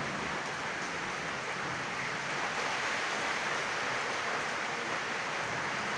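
Heavy rain falling, a steady even hiss with no thunder heard.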